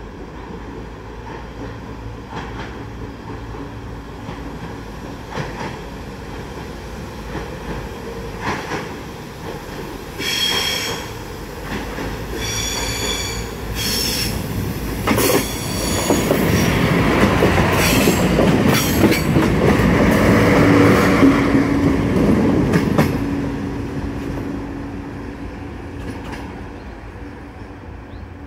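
A Siemens Desiro diesel multiple unit comes out of a tunnel and passes close by. Its engine and wheel noise build to a peak about twenty seconds in, then fade as it runs away. As it approaches, three short high-pitched squeals come between about ten and fifteen seconds in.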